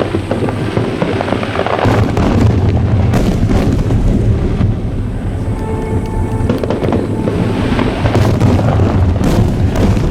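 Fireworks bursting in quick succession, with deep booms and crackling, over music playing.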